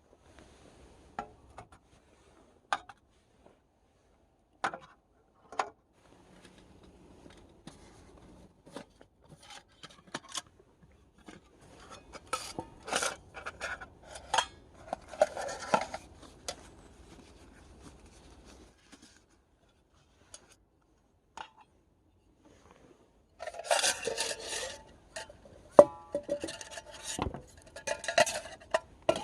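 Camp cookware and utensils being handled: scattered clicks and knocks, then two spells of scraping and rustling, the second louder, near the end.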